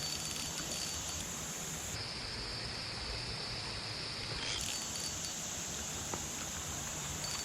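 A steady, high-pitched chorus of insects that dips lower in pitch for a couple of seconds mid-way, over a low, even wash of flowing water.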